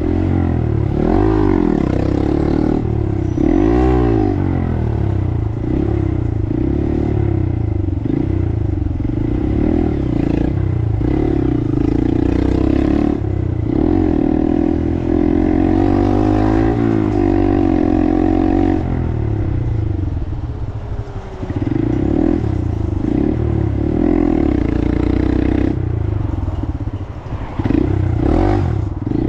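Small Honda motorcycle's 125 cc single-cylinder engine under way, its pitch climbing and falling again and again as it accelerates through the gears and eases off. It drops back briefly about two-thirds of the way through.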